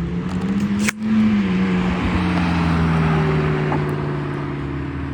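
A car's engine pulling away, its note rising for about a second. It breaks off with a sharp click about a second in, then comes back louder and slowly falls in pitch as the car passes.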